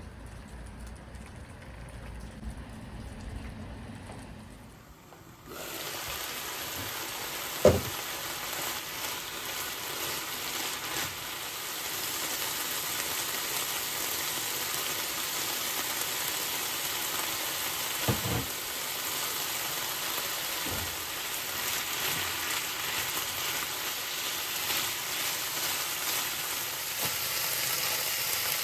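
Food sizzling in hot oil in a frying pan, starting suddenly about five seconds in after a low, quiet rumble. A sharp knock comes about two seconds after the sizzle starts, and a couple of softer knocks follow later.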